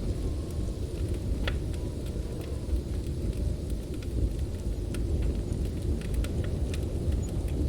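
Steady low roar of storm wind with scattered small crackles and pops from a wood fire, one sharper pop about a second and a half in.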